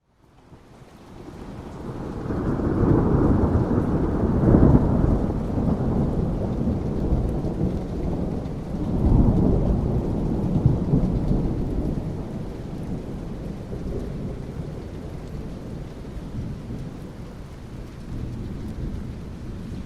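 Thunder rumbling over steady rain, fading in from near silence at the start. Two long swells of rumble, the loudest about four to five seconds in and another about nine to eleven seconds in, then it eases to a lower, steadier rumble with the rain.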